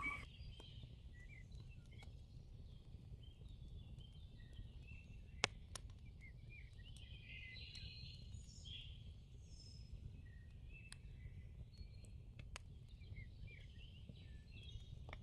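Faint birds chirping over a steady low hum, with a few soft clicks.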